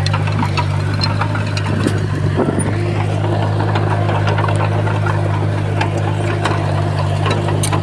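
Heavy diesel engine of earthmoving machinery running steadily, with scattered sharp clicks and clanks over it.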